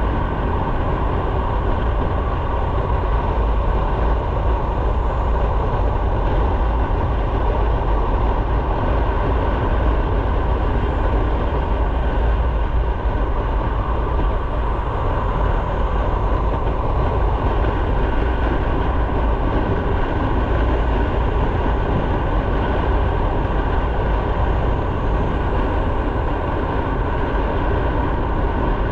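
Motorcycle on the move: a steady mix of engine, wind and road noise, with a heavy low rumble.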